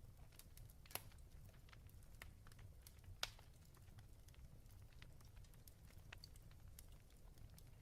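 Fireplace crackling faintly: scattered small crackles, with two louder pops about one second and three seconds in, over a low steady rumble.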